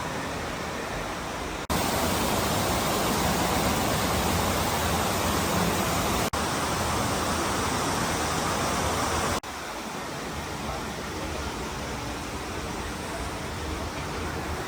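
Steady rushing noise with no distinct tones, breaking off abruptly and changing level about two, six and nine seconds in.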